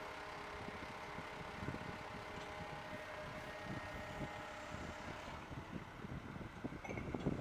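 Faint steady machinery rumble with wind noise on the microphone, growing louder and more uneven near the end.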